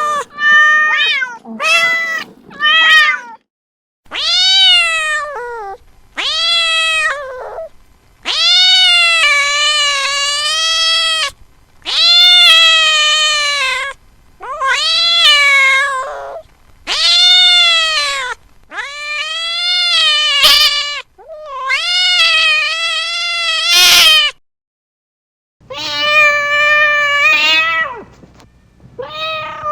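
Domestic cat meowing over and over. A few quick meows come first, then a dozen or so long, drawn-out meows of two to three seconds each, each one rising and then falling in pitch.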